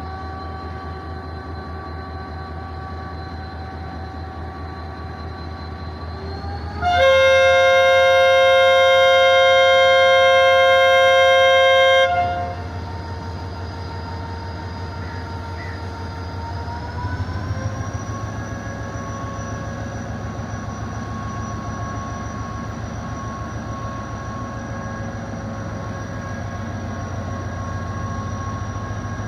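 Diesel locomotive engine running steadily, then a long, loud horn blast of about five seconds starting some seven seconds in. Around seventeen seconds in, the engine note rises as the locomotive throttles up to pull the train away.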